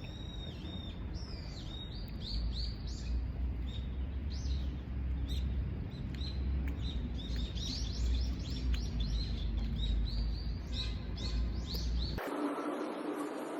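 Many small birds chirping and twittering in quick, overlapping high calls over a low background rumble. About twelve seconds in, the birdsong cuts off abruptly and a steady low hum takes over.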